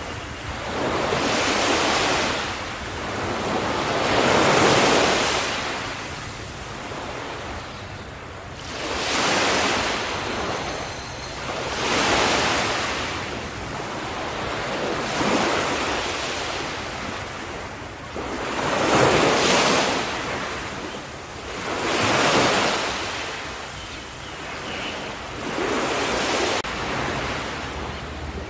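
Small ocean waves breaking and washing on the shore in a steady series, each surge of hiss rising and falling about every three seconds.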